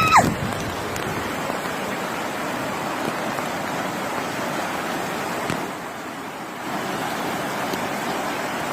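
Floodwater rushing through a swollen gully, a steady even roar that drops a little for a moment about six seconds in.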